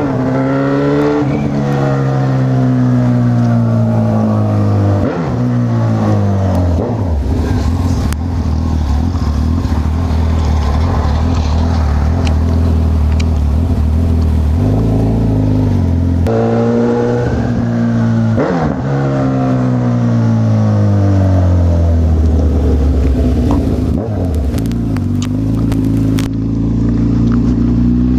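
Honda CB1000R's inline-four motorcycle engine under way, its revs climbing and dropping through acceleration and gear changes, with stretches of steady cruising between.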